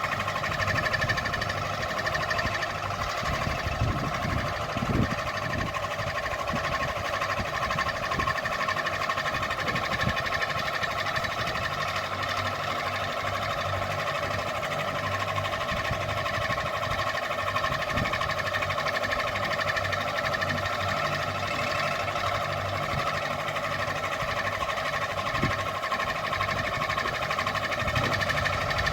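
Ceiling fan running steadily: a constant motor hum with a whine made of several steady tones, and a few faint knocks now and then.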